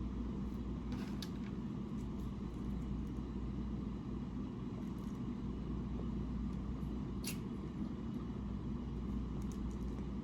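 Steady low background hum, with a few faint short clicks of eating.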